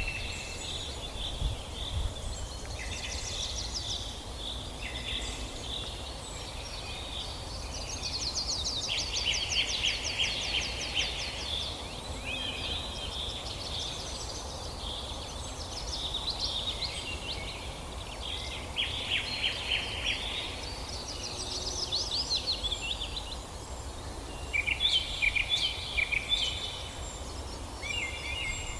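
Several forest songbirds singing at once, overlapping chirps and rapid trills, over a steady low background rumble.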